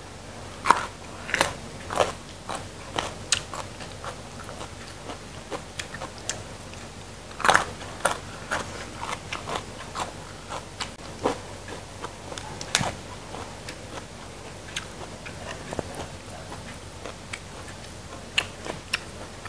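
Close-up crunching and chewing of raw vegetables: irregular crisp bites and snaps, the loudest about seven and a half and thirteen seconds in.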